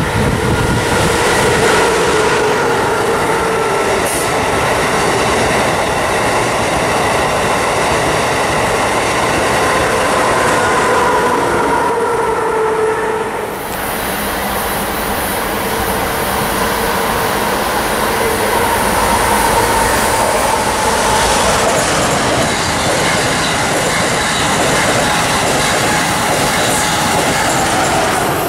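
Amtrak Acela Express high-speed electric trainset passing at speed: a loud, continuous rush of wheels on rail and air, with faint wavering tones running through it. About halfway through, the sound changes abruptly into another stretch of loud rushing noise.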